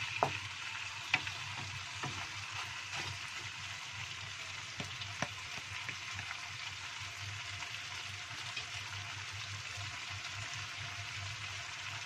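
Chicken rica-rica sizzling steadily in a wok as its liquid cooks off. A wooden spatula stirs and knocks against the pan now and then, mostly in the first half.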